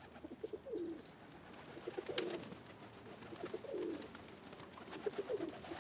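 Pigeon cooing: about four low, throaty coo phrases, each a few short notes running into a longer slurred note, with a sharp click about two seconds in.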